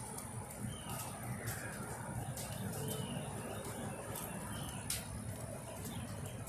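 Outdoor ambience: a bird giving short chirps about once a second over a steady low background rumble, with faint scattered clicks.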